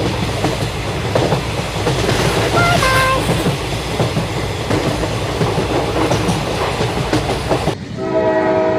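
Train running along rails with a steady clattering rattle. About three seconds in, a short two-note toot sounds. Near the end the rattle drops out and a steady train horn begins.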